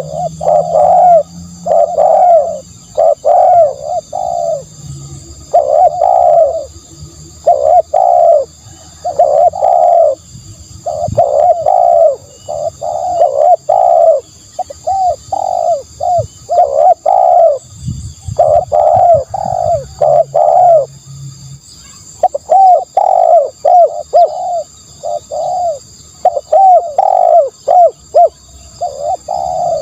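Spotted dove cooing over and over: short coos in quick runs with brief pauses, a decoy call recording for luring doves.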